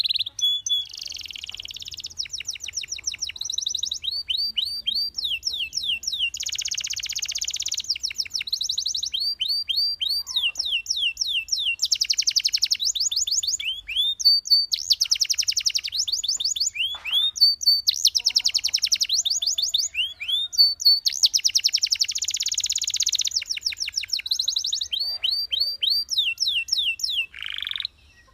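Domestic canary singing a continuous song of rapid trills: fast runs of repeated, sweeping high notes, changing to a new phrase every second or two with only brief pauses between.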